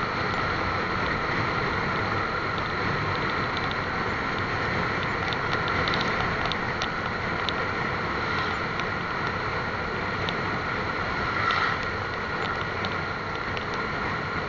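Steady wind and road noise from a moving motorcycle, with a few faint clicks in the middle.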